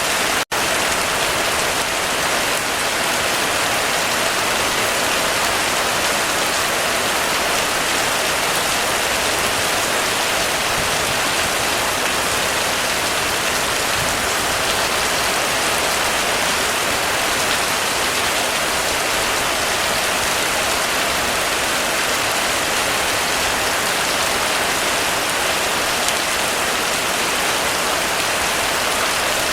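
Heavy rain falling steadily on a roof, an even rush of drops without letup. There is a split-second dropout about half a second in.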